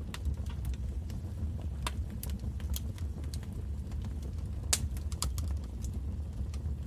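Wood fire in a fireplace crackling: scattered sharp pops and snaps, one louder snap near the middle, over a steady low rumble of flame.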